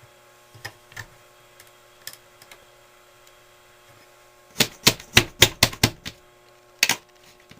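Sharp clicks and taps on a ceiling exhaust fan's grill as it is handled: a few light ones, then a quick run of about eight loud ones, then two more near the end.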